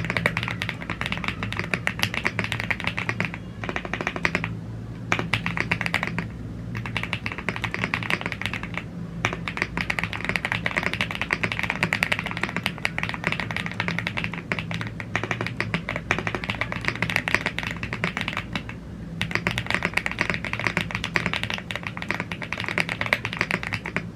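Fast, continuous typing on a YUNZII AL75 gasket-mounted aluminium mechanical keyboard with Blue Grey tactile switches and PBT keycaps: a dense clatter of key presses broken by a few short pauses, over a steady low hum.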